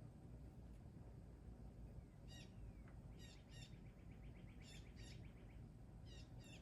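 Songbirds chirping faintly: a series of short high chirp phrases from about two seconds in, with a fast, even trill of repeated notes through the middle, over a steady low background hiss.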